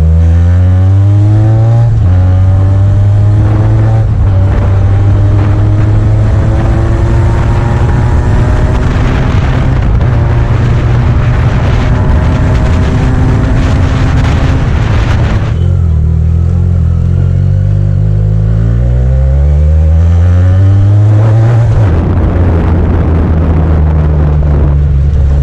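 Benelli TNT 300 parallel-twin motorcycle engine through a Yoshimura aftermarket exhaust, pulling under throttle. Its pitch climbs steadily and drops sharply at each of a few gear changes.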